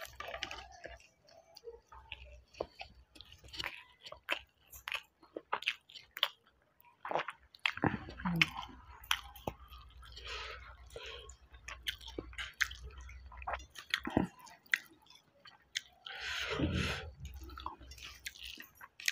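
A person chewing mouthfuls of hand-eaten rice with wet mouth clicks and smacks, in an irregular patter of short sounds.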